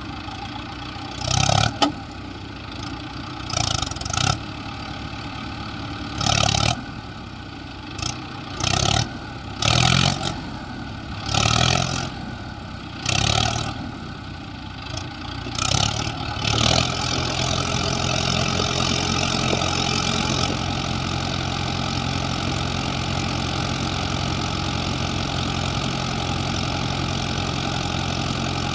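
Heavy diesel engine revved in short repeated bursts, about one every second or two, then running steadily and louder from a little past halfway.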